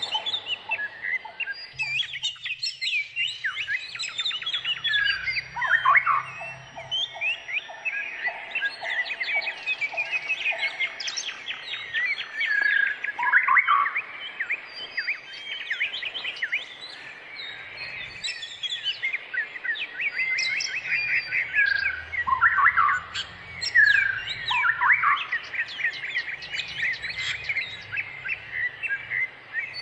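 Many birds chirping and calling at once in a dense, continuous chorus of quick high chirps, with a short run of evenly repeated lower notes about six seconds in and a few falling calls later on.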